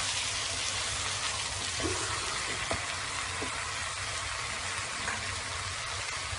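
Sliced green tomatoes with onion and spices frying in oil in a pan, a steady sizzle, with a few soft knocks of a spatula in the first half.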